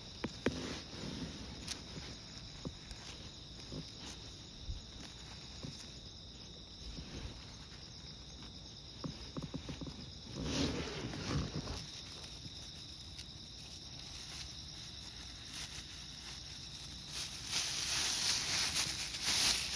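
Insects, crickets among them, chirring steadily in a continuous high trill, with footsteps and light rustling of someone walking. A louder rustle comes about halfway, and a broad rushing noise swells near the end.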